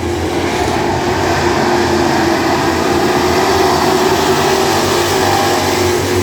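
Several classic-class dirt track race cars running together on the track, their engines blending into a loud, steady drone.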